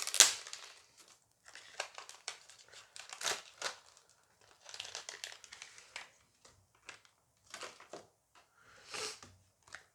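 Crinkling and tearing of Dice Masters foil booster packs being ripped open and handled, in irregular bursts, loudest at the very start.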